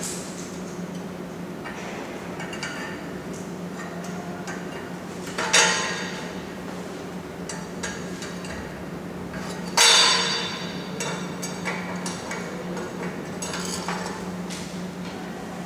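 Two loud metallic clanks about four seconds apart, each ringing briefly, with lighter clinks of metal between them, over a steady low electrical hum.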